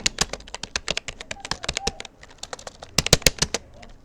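Rapoo computer keyboard being typed on: irregular key clicks, with a quick run of louder keystrokes about three seconds in.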